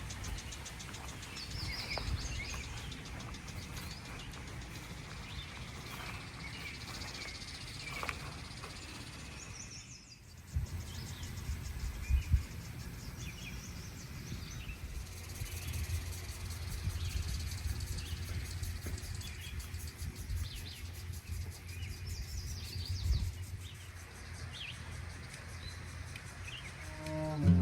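Outdoor ambience: small birds chirping intermittently over a steady low rumble of wind or distant noise. The sound drops briefly about ten seconds in, and a couple of low thumps come shortly after.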